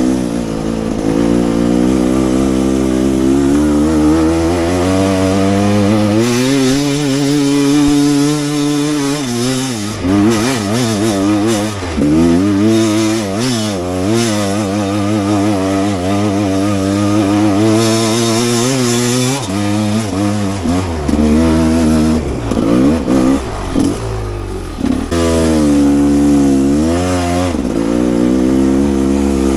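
Two-stroke enduro motorcycle engine, a Rieju, being ridden hard: it revs up and down over and over as the throttle is worked, with short drops in revs between bursts.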